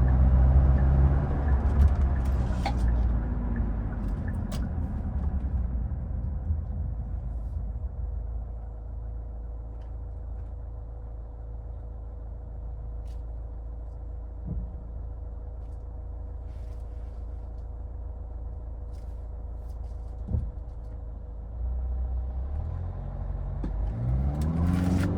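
2014 Hyundai Santa Fe: engine and road noise fade as the SUV slows, then a long stretch of low, steady idling. Near the end the engine note rises again as it pulls away.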